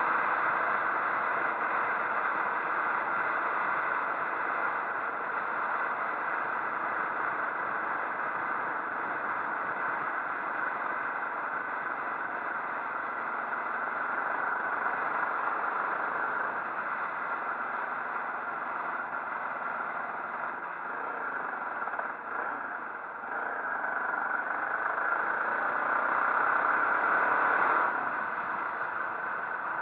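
Motorcycle engine running on the move under a steady rush of wind and road noise, the engine pitch shifting now and then; the sound gets quieter near the end.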